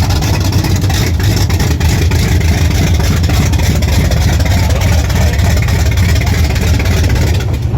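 Strong wind buffeting the phone's microphone, a loud steady rumble with gusty crackle, easing suddenly near the end.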